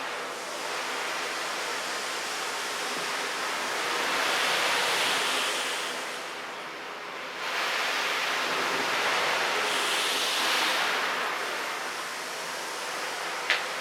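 Ocean surf: a wash of noise that swells and falls back like waves rolling in and receding, with two larger swells.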